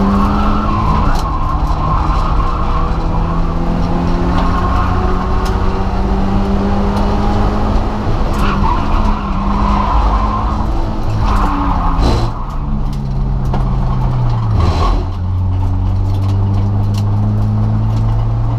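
Naturally aspirated Subaru Impreza flat-four engine heard from inside the caged cabin, running at steady revs on track. About twelve seconds in the revs change, and from about fifteen seconds they fall to a lower, steady note.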